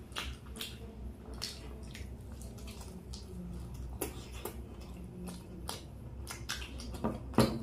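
Wet chewing and lip-smacking from eating chicken lollipops: irregular short smacks and clicks.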